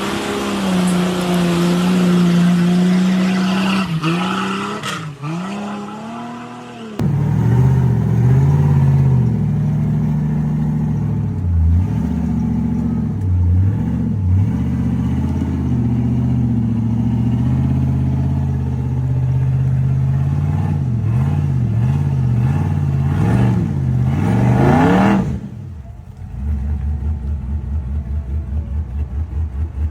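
Off-road 4x4 engines running hard and revving up and down, the pitch dipping and climbing again and again. The sound changes abruptly twice, and near the end it becomes a lower, evenly pulsing engine note.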